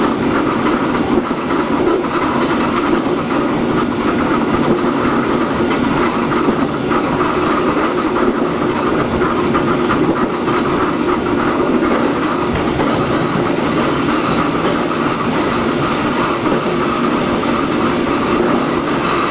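Hakone Tozan Railway Moha 1 No. 106 running, with its nose-suspended SE121-A traction motors and gearing humming steadily over the noise of wheels on rail.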